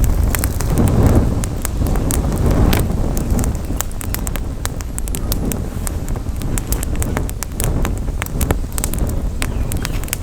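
Campfire crackling, with frequent sharp irregular pops over a low rumble of wind on the microphone, the rumble swelling briefly in the first few seconds.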